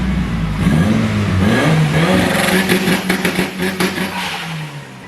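Mitsubishi Lancer Evolution VIII's turbocharged 4G63 four-cylinder engine accelerating hard, its pitch rising, with a quick run of sharp crackles in the middle before the engine note drops away near the end.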